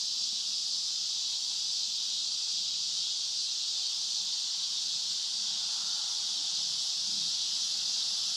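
Steady chorus of insects, a dense, unbroken high-pitched hiss.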